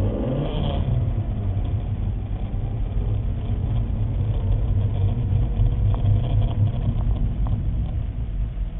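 Car engine running steadily at low revs, a continuous low rumble, as the car reverses.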